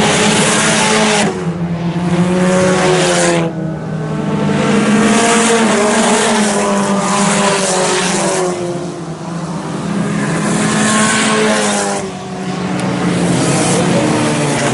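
Several IMCA Sport Compact race cars running at racing speed, their engines revving and passing, with overlapping engine pitches rising and falling.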